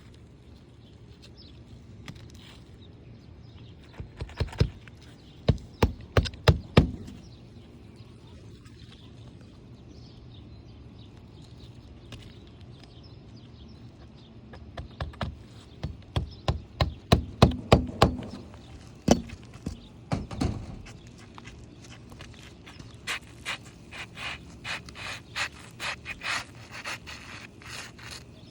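Hammer driving roofing nails into an asphalt shingle during a shingle replacement: two bursts of sharp strikes, then a run of lighter, quicker taps near the end.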